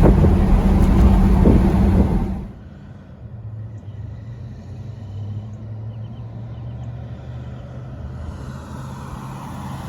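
1962 Oldsmobile Starfire's V8 running loudly for about the first two seconds, then falling off sharply to a quieter, steady low hum.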